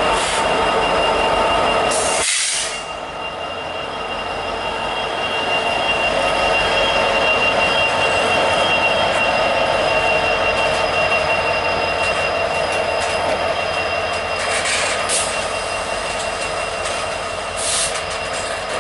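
Freight train rolling past, with diesel locomotives running and steel wheels giving a steady, high, multi-toned squeal on the rails. A few brief hissing bursts rise above it, one about two seconds in and two more near the end.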